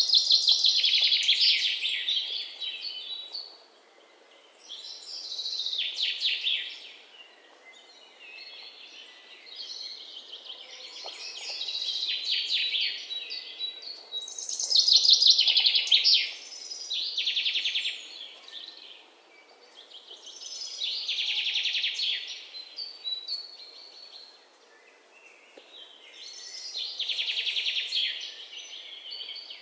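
A songbird singing high, quick phrases of rapid notes, each lasting one to three seconds and repeated about seven times with short pauses between them, over a faint steady hiss.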